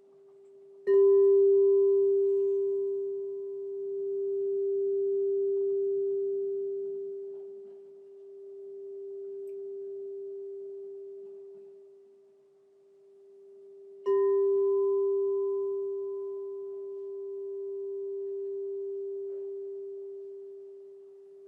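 Crystal singing bowl struck twice, about a second in and again about fourteen seconds in, each time ringing one steady pure tone with faint higher overtones that decays slowly with a slow swelling-and-fading waver.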